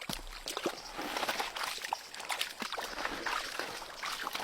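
Water splashing and sloshing in quick, irregular splashes.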